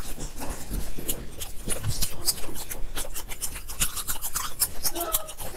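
Close-miked chewing and mouth sounds: a rapid, irregular run of wet clicks and smacks.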